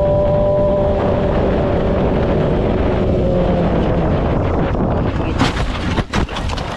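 Loud vehicle noise with wind buffeting the microphone, under a whine that slowly falls in pitch. Several sharp knocks come in quick succession near the end.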